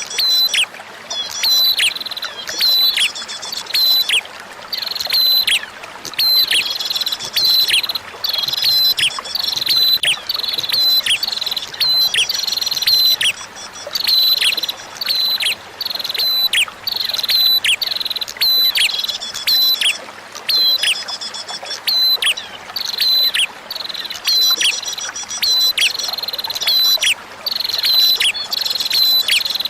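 Recorded song of a prenjak (prinia): rapid strings of sharp, high chirps with quick falling notes, in phrases of a second or two separated by short gaps. Beneath it runs a steady hiss of trickling water.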